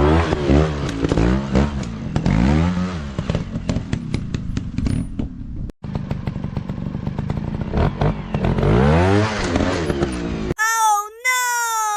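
Dirt-bike engines revving up and down over and over, with scattered sharp clicks. Near the end the engines stop and a short clean pitched tone wavers and then glides down.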